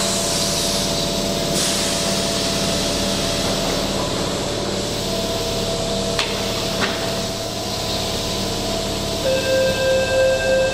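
Keihan electric commuter train standing at an underground platform with a steady hum. A hiss of air comes in the first second or so, there are two sharp knocks about six seconds in, and near the end a pulsing beeping tone starts up, a door-closing warning before departure.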